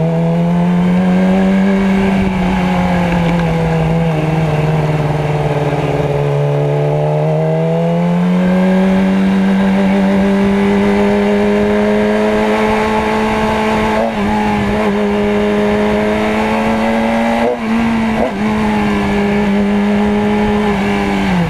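Motorcycle engine running at steady revs. Its pitch eases down for a few seconds, rises again, then holds level with a few brief dips, and drops away at the very end.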